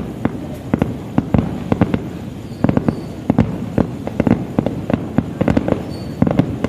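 Aerial fireworks bursting: an irregular run of sharp bangs and pops, several a second, without a break.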